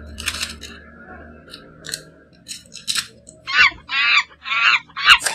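Paper rustling and crinkling as a small paper packet is handled and opened. Then, from about three and a half seconds in, a bird calls four times in quick succession, louder than the paper.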